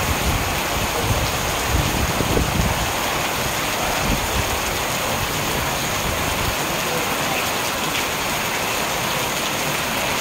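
Heavy rain pouring steadily onto a tiled driveway and parked cars: a dense, even hiss of splashing drops.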